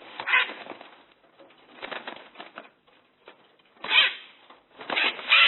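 A parrot making short, harsh, scratchy calls, in about five separate bursts with gaps between them.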